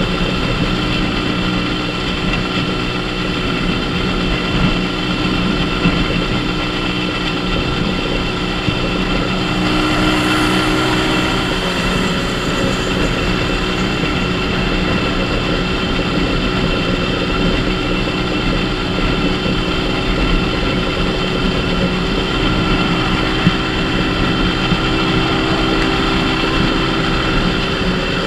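Small Dafra Super 50cc motorcycle engine running steadily at cruising speed, under a constant rush of wind on the microphone. About ten seconds in, a brief louder hiss rises over it.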